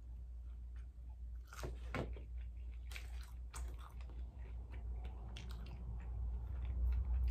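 A person chewing fried seafood close to the microphone, with a handful of sharp crunches and mouth clicks spread through.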